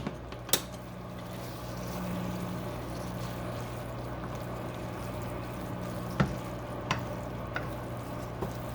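Noodles being stirred and tossed through a sauce with a kitchen utensil, with a few sharp clicks of the utensil against the dish, over the steady hum of a running microwave.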